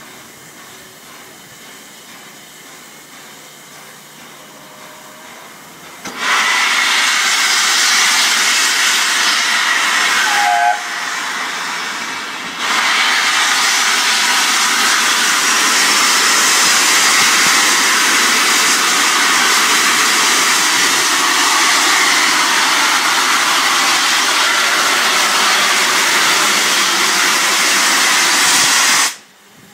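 Steam locomotive 60163 Tornado, an LNER Peppercorn A1 Pacific, letting off steam: a loud, steady hiss that starts suddenly about six seconds in, drops briefly near the middle, and cuts off abruptly near the end.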